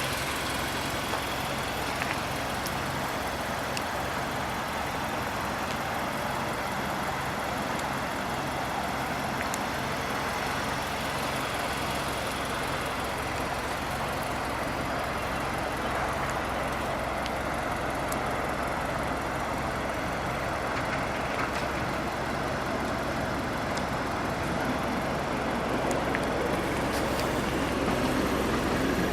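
Nissan Juke Nismo's 1.6-litre turbocharged four-cylinder engine idling steadily, heard from outside the car.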